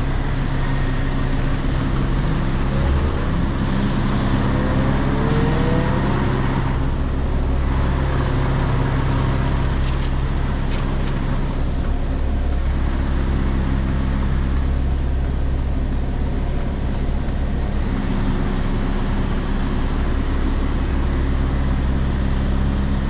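Diesel engine of an articulated lorry running steadily at low revs, heard from the cab while the truck creeps into position. There are a few short rising whines about five seconds in.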